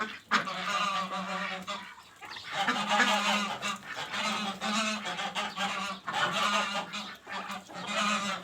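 A flock of farm poultry calling together, with honking, easing briefly about two seconds in.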